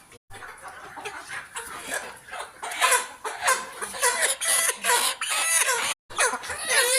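A flock of laying hens clucking and calling, many overlapping calls that grow louder about three seconds in. The sound cuts out briefly twice.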